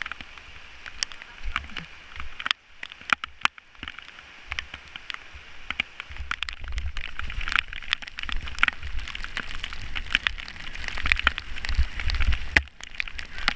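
Rain falling during a bicycle ride, a steady hiss with many sharp ticks of drops hitting close by, and a low wind rumble that grows stronger in the second half.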